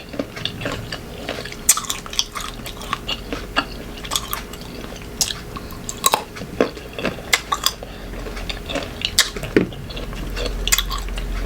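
Close-up chewing of crunchy unripe green mango, with many irregular crisp crunches and wet mouth sounds.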